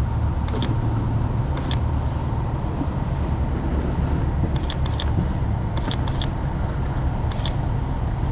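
Camera shutter clicking about ten times, singly and in quick pairs and triplets, over a steady low rumble.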